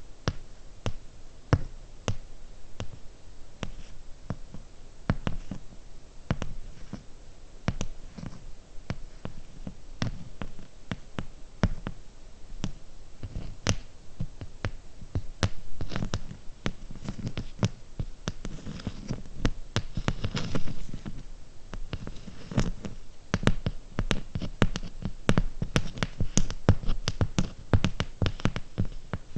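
Slow fingernail tapping on small hard trigger objects close to the microphone: sharp, uneven clicks a few times a second, with soft low thumps and a stretch of rubbing around the middle.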